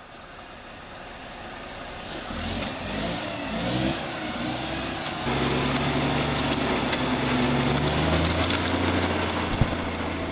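Heavy truck engine revving hard under load, its pitch rising and falling, then running steady and louder after an abrupt change about five seconds in; a short sharp knock near the end.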